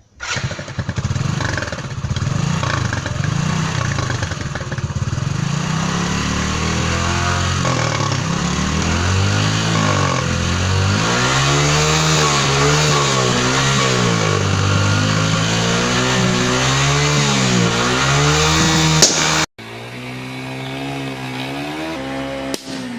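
Motorcycle engine being revved over and over, its pitch rising and falling in repeated blips. The sound breaks off sharply about 19 seconds in and carries on a little quieter.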